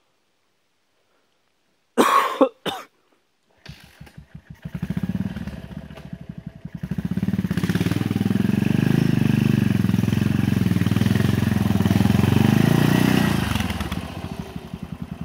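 Yamaha TT500 single-cylinder four-stroke engine kick-started: after two short loud bursts about two seconds in, it catches nearly four seconds in with a few slow, uneven firings, then settles into a steady run with each firing distinct. It grows louder as the bike rides up and passes close, then fades in the last second.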